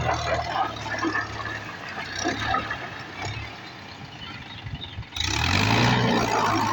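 Tractor engine running with scattered knocks and rattles. About five seconds in, a much louder engine sound starts abruptly, its pitch rising as it revs up and then holding steady.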